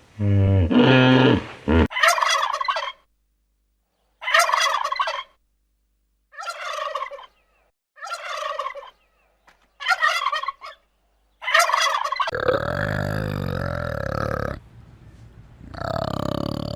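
An animal calling: a low grunt-like sound at the start, then six short warbling calls about two seconds apart, then a longer continuous call.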